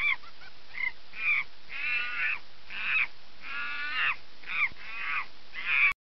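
A monkey's harsh, repeated calls: about ten cries, some short and a few drawn out, cutting off suddenly near the end.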